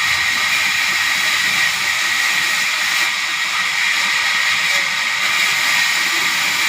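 Sawmill saw running through timber: a steady, loud, high-pitched hiss that holds even throughout.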